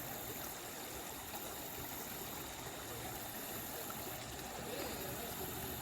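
Creek water flowing steadily over a salmon spawning stream, an even rushing sound.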